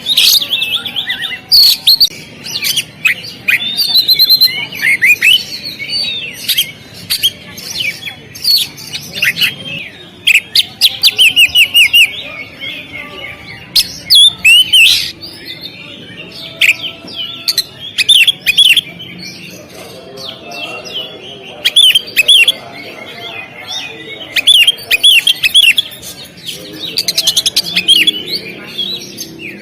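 Oriental magpie-robin singing a rapid, varied string of whistled notes and sharp chirps, with a few short pauses.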